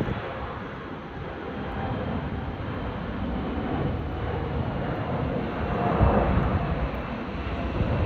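Airliner's jet engines during a landing: a steady rumble with a faint high whine, swelling slightly about six seconds in.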